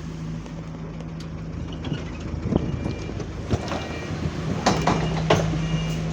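Euro 5 bus running, with a steady engine hum that fades for about two seconds midway and then comes back, and a series of sharp knocks and rattles in the middle.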